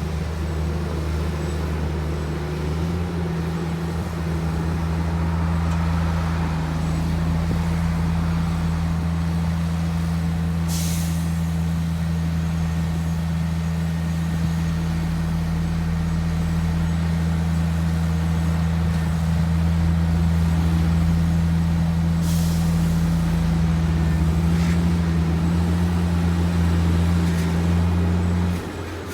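Heavy diesel engine of earthmoving machinery running steadily under load, its pitch stepping up slightly about three seconds in. Two short, high hisses cut through, about eleven and twenty-two seconds in.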